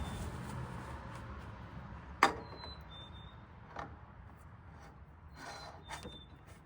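A new oil filter being fitted by hand: quiet rubbing and handling noises, with one sharp knock about two seconds in, a softer click later and a short scraping rub near the end.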